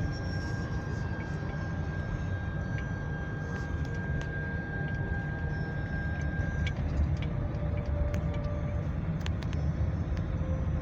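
Car cabin noise while driving slowly on snow-covered roads: a steady low rumble of engine and tyres. A faint thin high whine stops about two-thirds of the way through.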